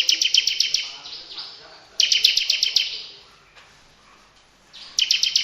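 Songbird giving three bursts of rapid, evenly repeated high, harsh notes, each about a second long: one at the start, one about two seconds in, and one near the end. These are 'tembakan' (rapid-fire) bursts used as training song for cagebirds.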